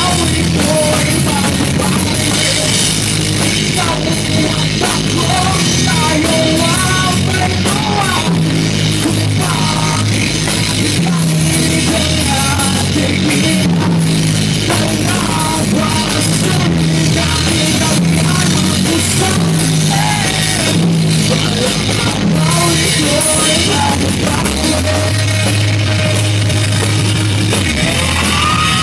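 Rock band playing an original song: drum kit, bass and guitar, with a melodic line that bends in pitch over them.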